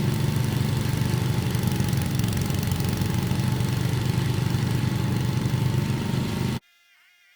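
An engine running steadily at idle, which cuts off suddenly near the end, leaving only a faint thin tone.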